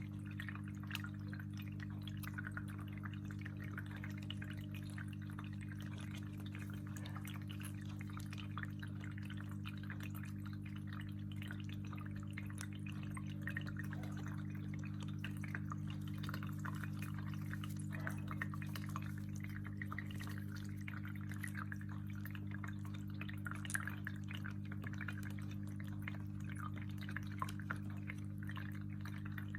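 Water dripping and splashing in small, quick patters, over a steady low hum.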